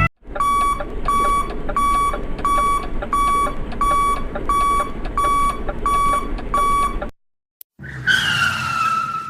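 An electronic beep repeating about one and a half times a second, ten times, over a steady mechanical hum, cut off suddenly. After a short silence a falling whine with a rush of noise follows.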